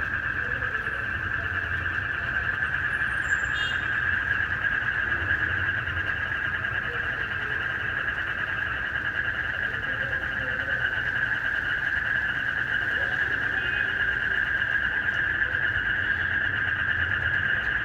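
Dense, steady night chorus of calling frogs and crickets: one continuous shrill trilling, with a faint low rumble underneath.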